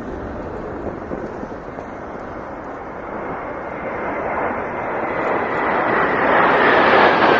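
Jet aircraft flying over, the engine noise swelling steadily as it approaches, with a faint whine coming in over the rushing roar in the second half.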